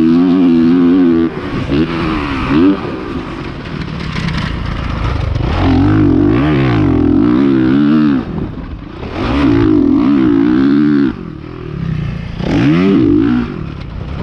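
Honda CRF450R four-stroke 450cc dirt bike engine revving hard and backing off again and again as it is ridden around a motocross track, its pitch rising and falling. It drops off sharply several times when the throttle closes, then picks back up.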